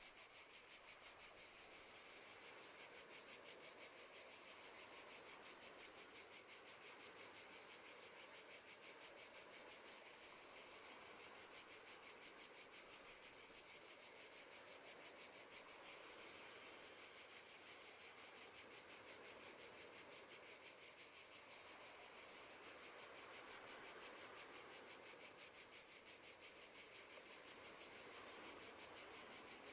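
Crickets chirping: a faint, steady high trill made of rapid pulses, as in a nature-sound background.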